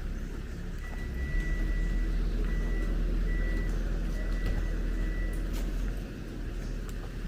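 Bus engine running low while a reversing alarm sounds a high steady beep in several uneven stretches, from about a second in to about five and a half seconds in.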